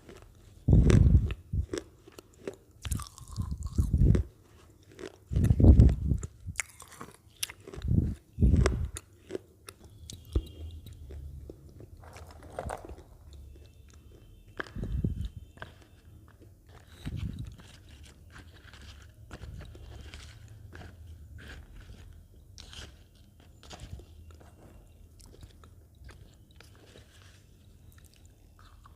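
Lay's potato chips bitten and chewed close to the microphone, crunching. Several loud, heavy bites come in the first nine seconds or so, followed by quieter crackly chewing.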